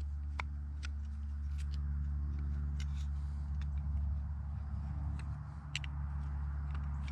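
Scattered small clicks and taps of metal carburetor parts being handled and fitted together, over a steady low hum.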